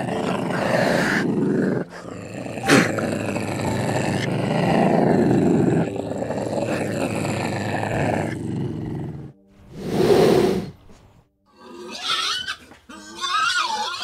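Big cat growling: a rough, low growl that runs for about nine seconds, then one shorter, louder call about ten seconds in. Near the end come a few higher, wavering squealing calls from another animal.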